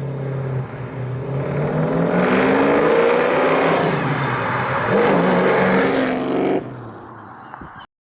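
1965 Ford Mustang fastback's 302 V8 running at a steady idle, then revved up twice, its pitch rising and falling. It drops back and cuts off suddenly near the end.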